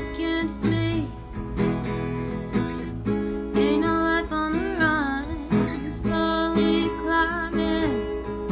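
Acoustic guitar music: strummed chords with a wavering melody line over them.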